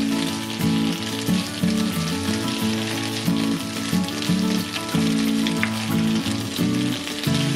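Garlic scapes sizzling in hot oil in a frying pan as they are stir-fried, with background music of low, changing notes throughout.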